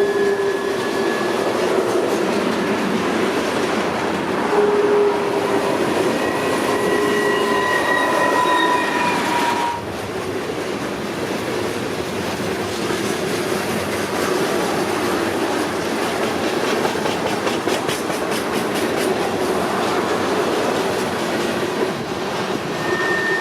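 Railroad train rolling past, with steel wheels clicking over rail joints and squealing in thin high tones that drift in pitch. The sound changes abruptly about ten seconds in, and the squealing fades back to mostly rolling noise.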